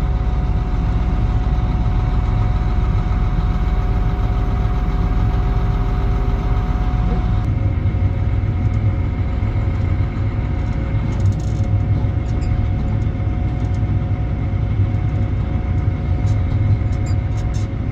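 Versatile 2375 four-wheel-drive tractor's diesel engine running steadily, a deep rumble with a fixed tone over it, which changes character about seven seconds in.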